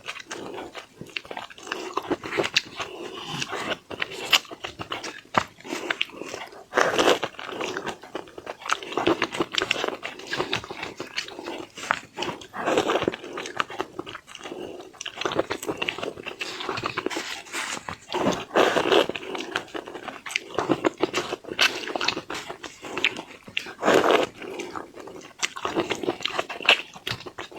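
Close-miked eating of seafood: a person chewing, biting and smacking wetly, with irregular crunchy bites throughout.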